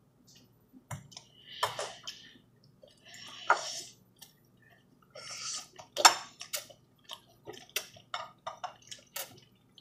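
Close eating sounds: noodles slurped in three short hissy bursts, then a run of quick wet clicks and smacks from chewing.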